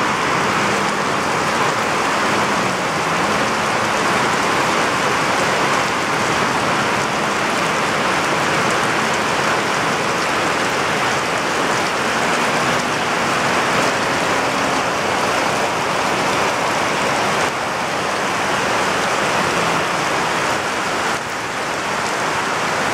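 Heavy rain pouring down on a concrete slab and a lawn, a dense, steady hiss.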